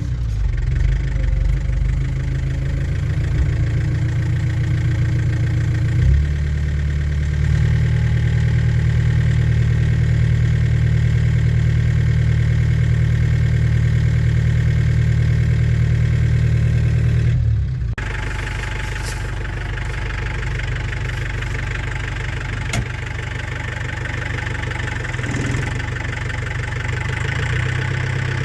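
A New Holland TCE50 tractor's diesel engine running steadily, its note shifting about six seconds in. Well over halfway through the sound cuts abruptly to a somewhat quieter engine with more high-pitched rattle, with a single sharp tick a few seconds later.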